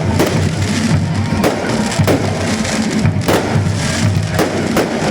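Fireworks display: several sharp firework bangs, a second or so apart, over music playing loudly.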